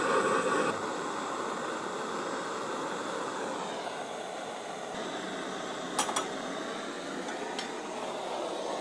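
A power tool's motor running steadily with a hissing, whirring noise, its pitch drifting slightly, with a few light clicks near the end.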